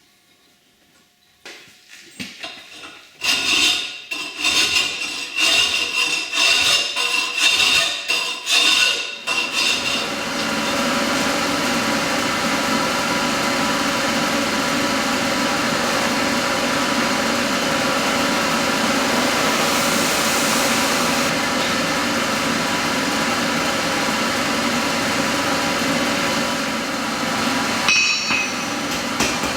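A forging hammer striking steel on an anvil, a quick run of ringing blows. It gives way to a long, steady machine noise, and a few more blows come near the end.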